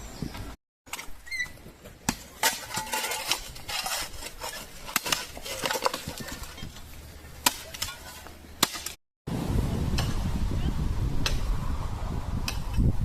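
Irregular sharp clinks and scrapes, like hand tools working stone and gravel during trail drainage work. After a cut near the end, a steady low rumble takes over.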